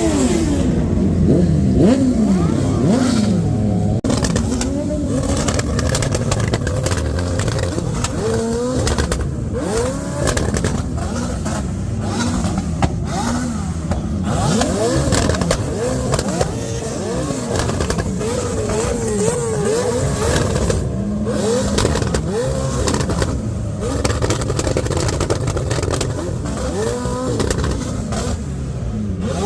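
Car engines being revved over and over, several at once, their pitch climbing and dropping back about once a second.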